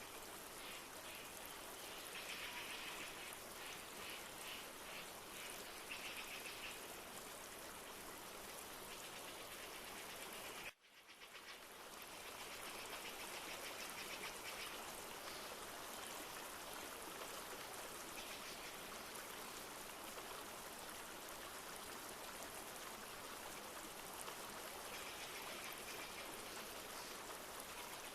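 Steady rushing of a flowing river with light rain, with a few short bursts of rapid chirping calls. About eleven seconds in, the sound cuts out abruptly and fades back up.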